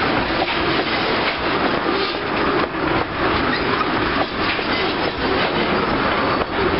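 Railroad tank cars of an ethanol train rolling past close by: a steady rumble of steel wheels on rail, broken by irregular clicks as the wheels pass over rail joints.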